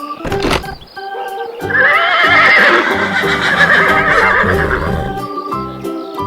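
A horse whinnying: one long, quavering neigh that starts about two seconds in and lasts about three seconds, over background music. A short noisy burst comes just after the start.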